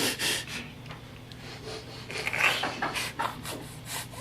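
A baby sniffing hard through the nose in a string of short, quick sniffs, with a quieter pause in the middle.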